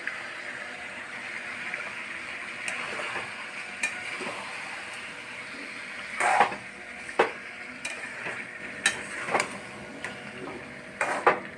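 Country chicken and spice paste sizzling steadily in hot oil in a pan while being fried down, with a spatula clinking and scraping against the pan every second or so, more often in the second half.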